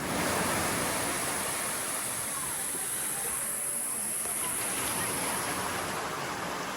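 Ocean surf washing steadily on the shore, an even rushing noise with a steady high hiss above it.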